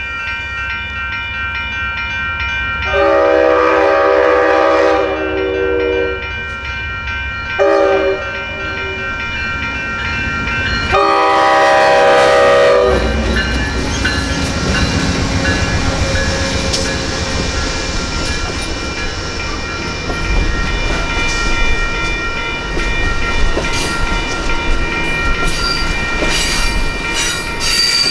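Two electronic railroad-crossing bells ring steadily while an approaching Amtrak train's GE P42DC locomotive sounds its horn: a long blast about 3 seconds in, a short one, and another long blast. From about 13 seconds in, the two P42DC diesel locomotives and the Superliner passenger cars run through the crossing with a loud rumble and the clatter of wheels over rail joints.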